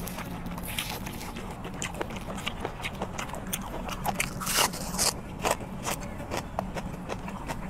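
Close-miked crisp biting and chewing of raw green onion, with a run of short crunches that is loudest about halfway through, over a steady low hum.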